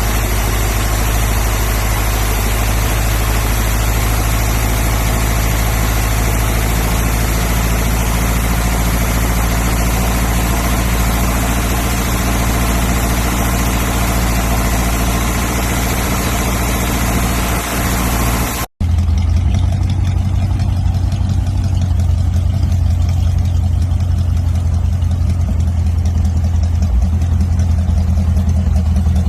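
1957 Ford Ranchero's engine idling steadily, freshly revived after sitting about four years. An abrupt cut about two-thirds through, after which the idle sounds deeper, with less hiss.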